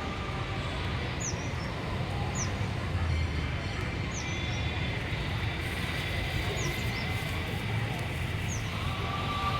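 A bird repeating a short, high, falling call about once a second over a steady low rumble.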